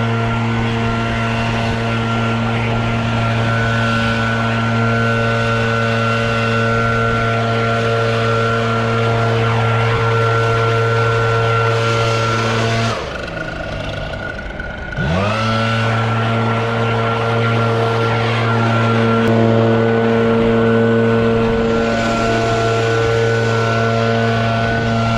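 Small two-stroke leaf blower engine running steadily at full throttle; about 13 seconds in the throttle is let off for a couple of seconds, then it revs back up to the same high, steady note.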